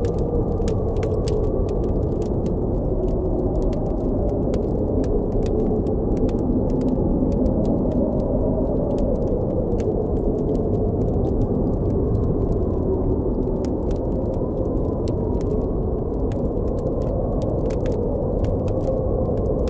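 Blizzard wind blowing as a steady low rush with a slowly wavering tone, while a wood campfire crackles with frequent, irregular sharp pops.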